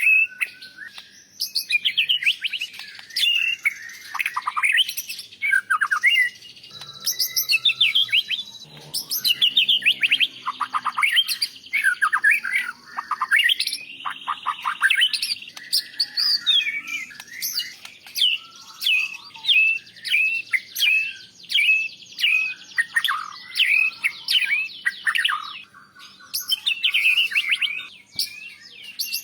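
White-rumped shama (murai batu) singing a long, continuous song of rapid whistles, sweeping notes and fast trills with only brief pauses. It is the kind of rich song used to teach other birds, laced with phrases imitated from other species such as canaries and lovebirds.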